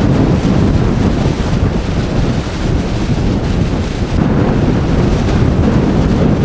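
Strong storm wind buffeting the microphone: a loud, gusting rumble that rises and falls without a break.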